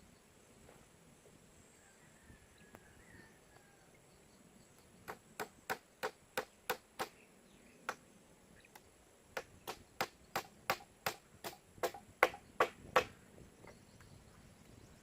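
Chopping on wood with a blade: a quick run of about six strokes, a single stroke, then about a dozen more, the last few loudest.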